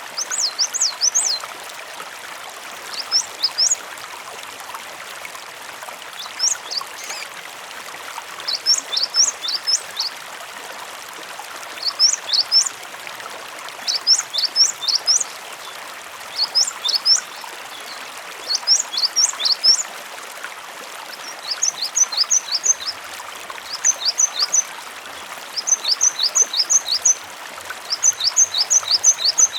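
Gelatik batu (cinereous tit) singing: short phrases of three to five high, sharp notes repeated about every two seconds, the notes becoming shorter and quicker in the second half. Under it, a steady rush of flowing water.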